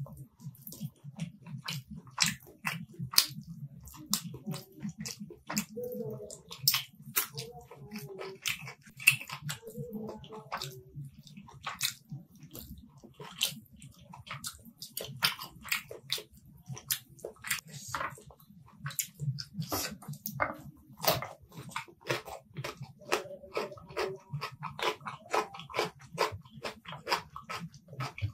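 Close-miked eating of rice and chicken curry by hand: wet chewing, lip smacks and mouth clicks coming several times a second, irregularly.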